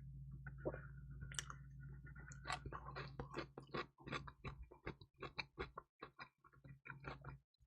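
Close-miked chewing of crispy pizza: a rapid run of short crunches and wet mouth clicks that starts about a second in and keeps going.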